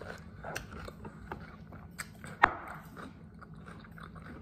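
Close-up chewing of a crunchy bell pepper sandwich boat filled with cream cheese and lunch meat: smacking chews with scattered small crunching clicks, and one sharper, louder click about two and a half seconds in.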